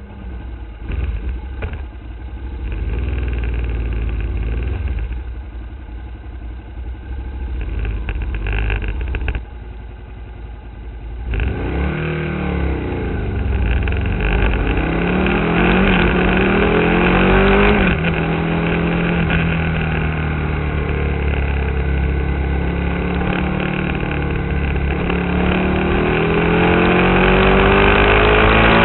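Aprilia Tuono's V-twin motorcycle engine running at low revs. About eleven seconds in it pulls away and revs up through the gears, its pitch rising and dropping back briefly at each gear change, then climbing steadily.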